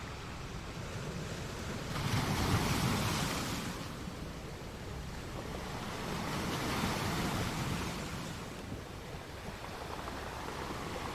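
A steady, even rushing noise from a relaxation sound track, swelling twice: loudest about two seconds in and again around six to eight seconds in.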